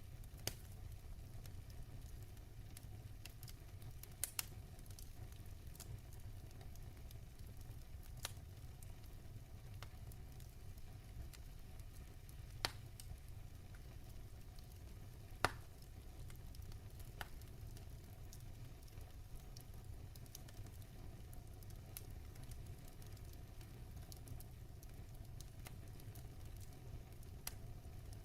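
Log fire crackling in a fireplace: a steady low rumble of flames with scattered sharp pops from the burning wood, the loudest about halfway through.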